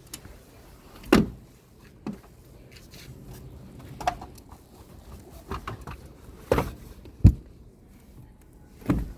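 A series of irregular knocks and clunks, about six in all, the sharpest about seven seconds in: car interior parts such as trim panels and the cargo floorboard being handled and knocked against the body.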